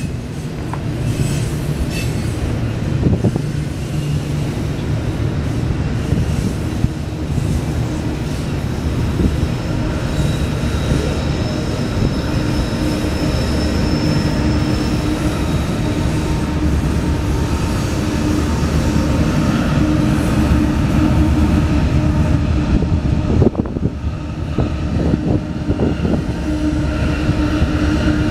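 Double-stack intermodal train's container cars rolling past, with a steady rumble of steel wheels on the rails and a faint high wheel squeal for a few seconds in the middle. The drone of Union Pacific diesel locomotives coming alongside grows near the end.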